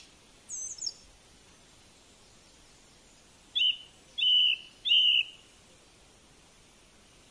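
Bird calls: a faint high chirp about half a second in, then three short calls in quick succession about three and a half to five seconds in. Under them is a steady faint hiss.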